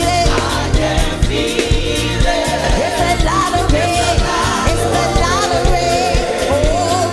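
Gospel praise music: singers with wavering, sustained lines over a band's steady beat of drums and bass.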